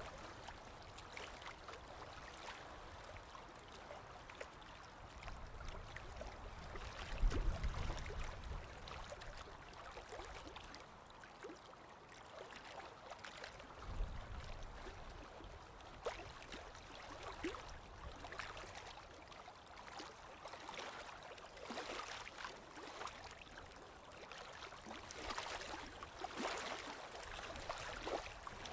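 Running water of a small stream, trickling and gurgling steadily with many small splashes. Two brief low rumbles come about a third and halfway through.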